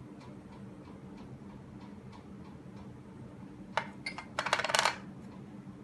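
Light clinking of kitchenware: faint ticks, then a sharp click about four seconds in and a quick burst of rapid clinks lasting under a second.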